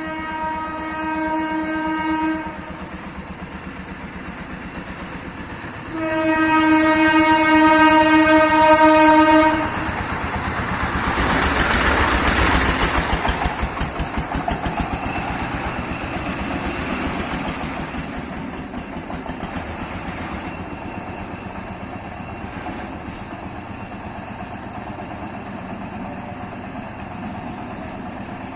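Indian Railways train horn blowing twice, a short blast then a longer, louder one, followed by the train rushing past with the rhythmic clatter of its wheels over the rails, loudest a few seconds after the second blast and slowly fading.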